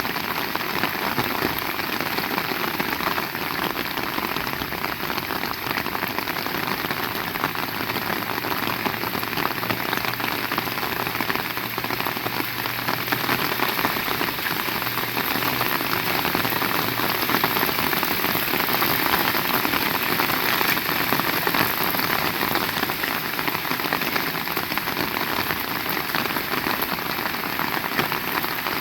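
Heavy rain falling steadily, a dense, even patter of drops hitting the ground and surfaces.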